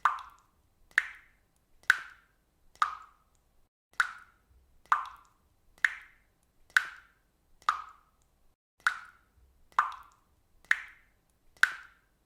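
Water dripping steadily, one drop about every second, each landing with a short ringing plink.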